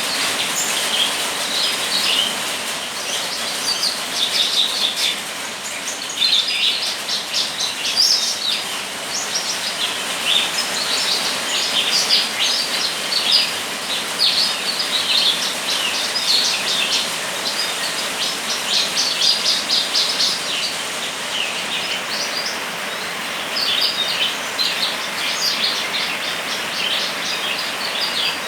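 A small songbird singing vigorously in repeated phrases of rapid, high chirps, each phrase a second or two long with short gaps between, over a steady hiss of rain.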